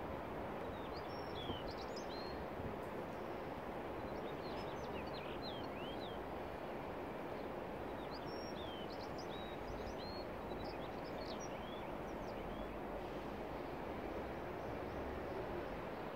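Small birds chirping in short, high calls that come in scattered clusters through the first two-thirds, over a steady outdoor background hiss.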